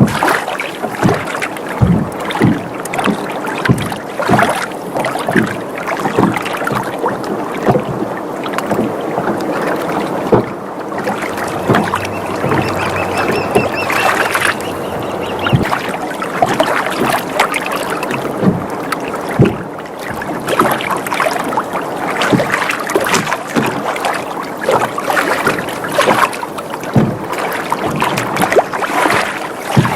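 Water sloshing and slapping against a sailboat's hull, with many irregular sharp slaps and knocks, and the boat's timbers creaking faintly about halfway through.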